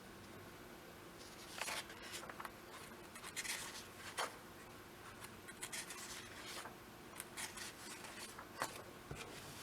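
Faint rustling of a comic book's paper pages being leafed through one after another, in a string of brief, irregular swishes.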